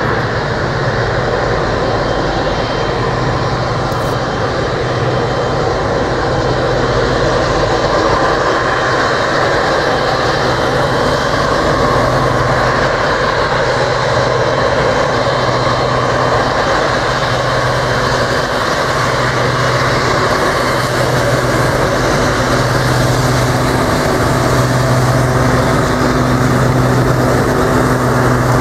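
Steady, loud vehicle noise: a continuous mechanical drone with a low hum that swells and fades every second or two.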